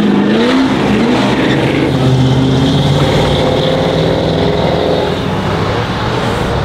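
Powerful car engines revving hard and accelerating away, with a loud, steady engine noise that rises in pitch at the start and eases off a little near the end.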